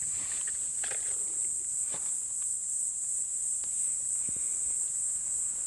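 Steady high-pitched chorus of insects singing, with scattered light clicks and rustles from the forest floor.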